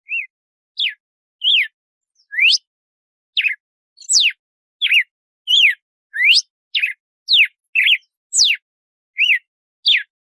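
Red-cowled cardinal (galo-de-campina) singing its 'açoite' song: a steady run of short, clear whistled notes, each a quick slide up or down in pitch, about one and a half notes a second.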